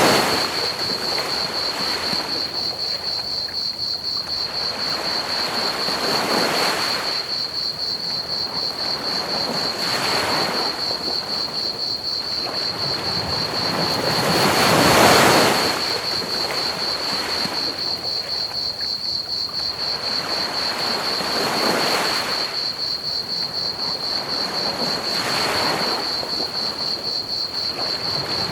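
Ocean waves breaking on a beach, swelling up every four to seven seconds with the biggest about halfway through, over a steady chorus of crickets chirping.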